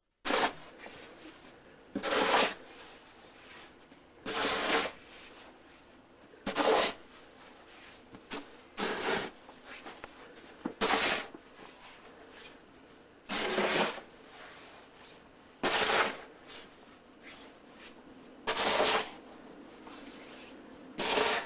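Crunching and scraping in deep snow, repeated about every two seconds, about ten times.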